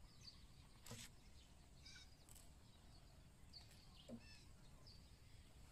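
Near silence: faint outdoor ambience with scattered short bird chirps, and a soft click about a second in.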